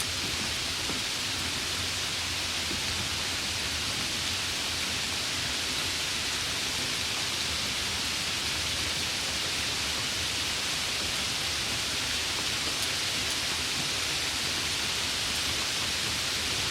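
Steady summer rain falling: an even, unbroken hiss with no single drops or thunder standing out.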